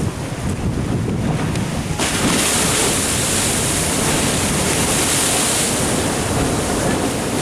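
Ocean surf washing in, a wave surging up about two seconds in and holding as a steady hiss, with wind buffeting the microphone.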